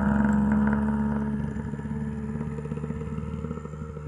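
Car engine running at a steady pitch, its sound fading gradually as the car drives away.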